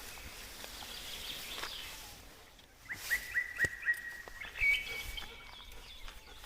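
Faint outdoor ambience with a bird calling: about halfway through, a quick series of about five short chirps on one note, then a slightly higher note.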